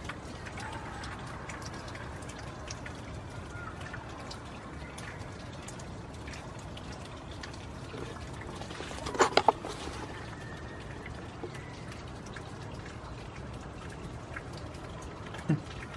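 Steady rain falling, with scattered drops ticking close by. About nine seconds in comes a short rattle of a few loud knocks.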